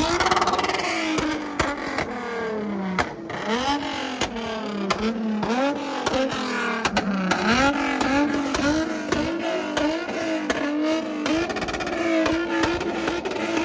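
A car engine revved hard again and again, its pitch rising and falling back in repeated waves, with sharp pops and cracks throughout. Near the end it settles into a steadier high rev.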